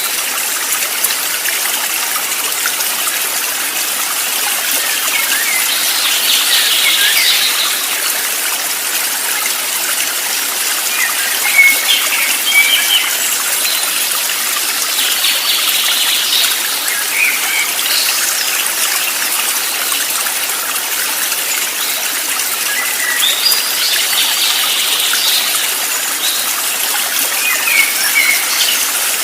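Steady rush of running water, like a stream, with small birds chirping in short twittering phrases every few seconds over it.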